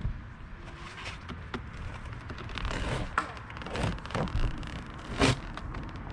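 Irregular scraping, creaking and knocking from tearing apart an RV roof, with one sharp knock about five seconds in.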